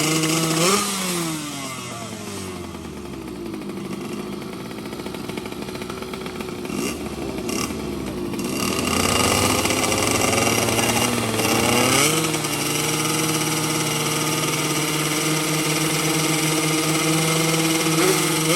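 Two-stroke underbone racing motorcycle engine revving hard. The pitch peaks about a second in and sinks over the next few seconds, then climbs again and holds high and steady through the second half.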